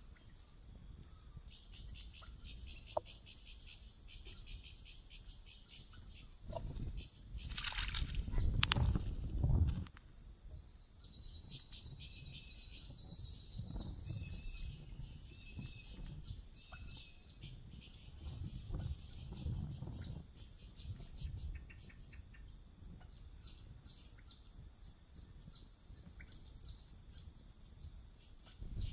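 Wild birds chirping and chattering in a continuous dense run of short high-pitched calls. A louder low rushing sound comes in about seven seconds in and lasts a few seconds.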